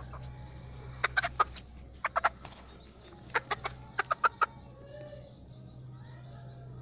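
Bantam chicken clucking in four quick clusters of short, sharp clucks, over a steady low hum.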